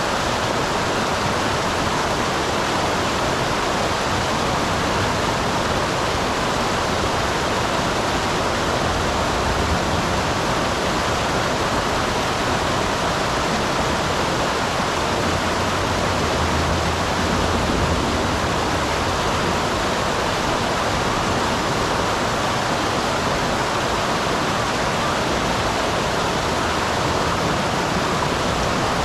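Small waterfall on a mountain stream, water falling and rushing in a steady, even roar.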